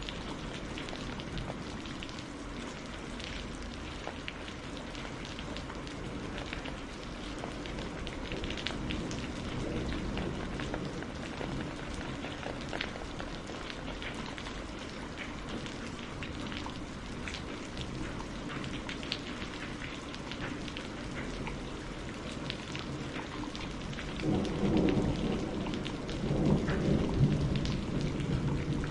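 Steady rainfall with many individual drops hitting a surface. A low rumble of thunder swells near the end.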